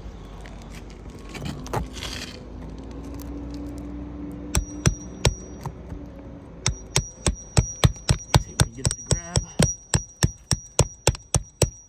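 Hammer striking a cat's claw nail puller to drive it under a roof shingle and dig out a roofing nail: sharp metal-on-metal strikes with a ringing tone. A few strikes come about halfway in, then a steady run of about three a second.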